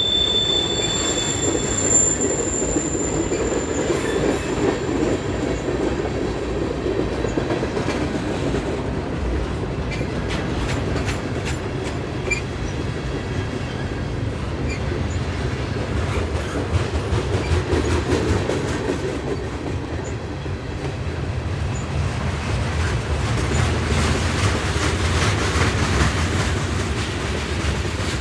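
Cars of a manifest freight train rolling past with a steady rumble. A high wheel squeal sounds in the first few seconds, then gives way to the clicking of wheels over the rails.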